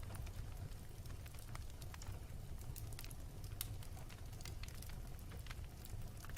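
Fire burning with a steady low rumble and irregular sharp crackles and pops scattered throughout.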